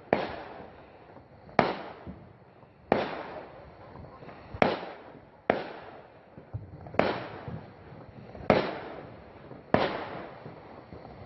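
Fireworks going off in a steady series: eight sharp bangs, one about every second and a half, each trailing off in an echo.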